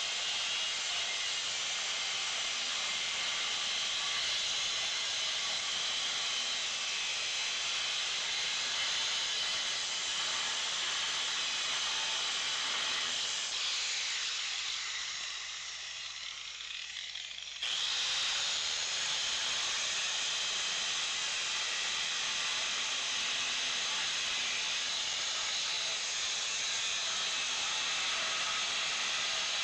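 Plasma cutter hissing steadily as it cuts steel plate. About 13 seconds in the hiss dies down, then starts again abruptly a few seconds later.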